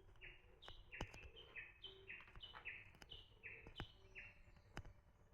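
A small bird calling over and over, faint, alternating a short high note with a slightly lower one, two or three notes a second, stopping just over four seconds in. A few sharp clicks come in between.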